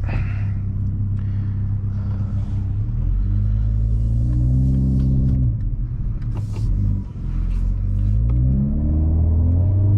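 2021 Toyota Supra with a muffler delete and downpipe, heard from inside the cabin with the windows up, accelerating gently at low revs. The exhaust note rises twice, with a brief dip about seven seconds in that fits a gear change. It is very loud, with a heavy low drone.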